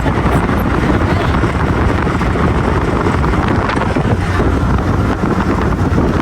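Wind buffeting the microphone over the steady rumble of a moving vehicle, an even, unbroken noise heavy in the low end.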